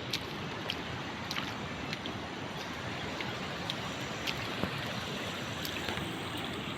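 Fast-flowing river water rushing steadily, with scattered faint clicks and ticks through it.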